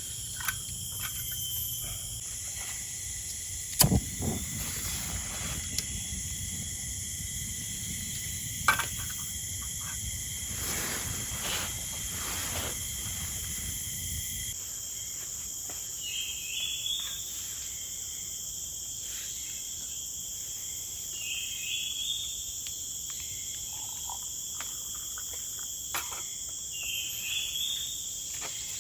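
Forest insects calling steadily in several high-pitched tones. In the first half there is a low rumble and a few sharp knocks, which stop abruptly about halfway. In the second half a bird gives a short rising call three times, about five seconds apart.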